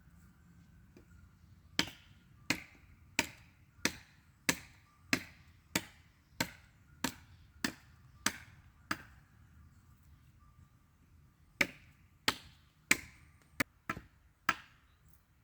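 Repeated blows of a tool on wood, about three every two seconds: a run of about a dozen strokes, a pause of a couple of seconds, then about six more.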